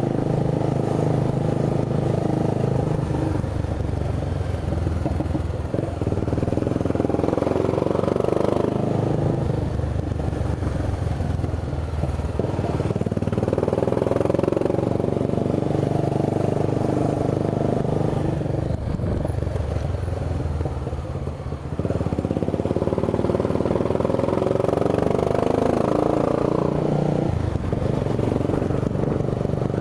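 Honda CB 300's single-cylinder engine running under way, its note climbing and then dropping back four times, as when accelerating and shifting up through the gears.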